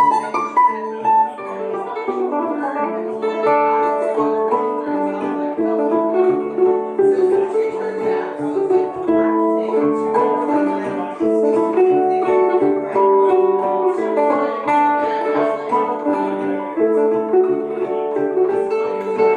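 Live acoustic folk instrumental on plucked strings, mandolin among them, playing quick picked melody notes over chords.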